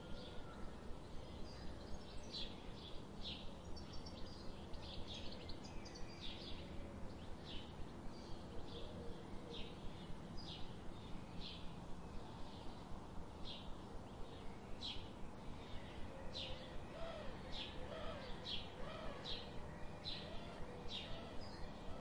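Birdsong ambience: a bird repeating short, high chirps about twice a second over a steady low background hiss. A few softer, lower warbling notes come in during the second half.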